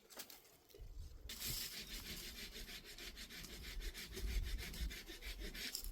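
A tool rasping on wood in rapid, even strokes, starting about a second in.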